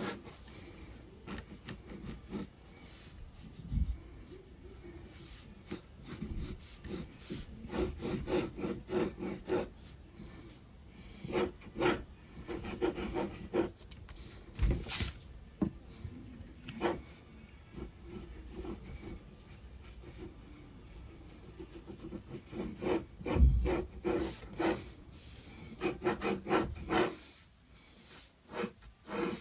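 Graphite pencil scratching across sketchbook paper in quick, irregular clusters of strokes, with a few dull bumps, the loudest about three-quarters of the way through.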